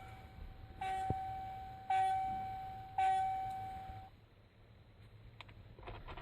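Dashboard warning chime of a 1988 Ford Ranger, ringing repeatedly about once a second, each tone fading before the next, then stopping about four seconds in. A single click and some rustling follow near the end.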